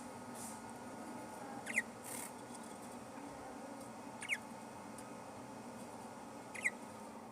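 A budgerigar gives three short, rising chirps, a couple of seconds apart, over a steady low background hum. A brief rustle comes just after the first chirp.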